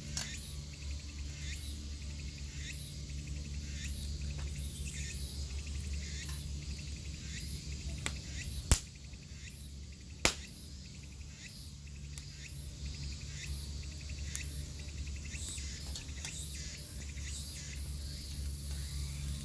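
Insects chirping in a steady train of short high-pitched pulses, over a low steady hum. Two sharp clicks stand out, about nine and ten seconds in.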